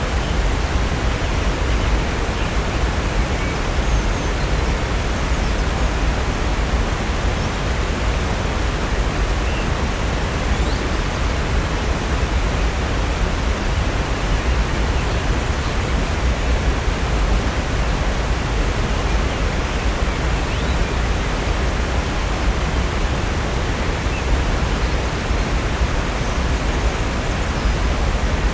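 Steady, unbroken rush of Upper North Falls, a 65-foot waterfall pouring into Silver Creek, with a deep low rumble under the hiss of falling water.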